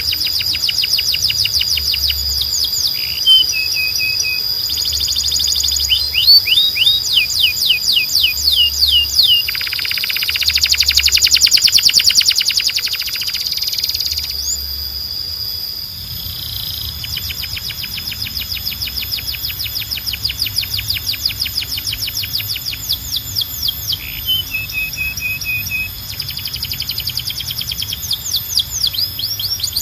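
Canary singing: fast runs of quickly repeated rising and falling whistled notes, with a louder, denser buzzing trill about ten to fourteen seconds in.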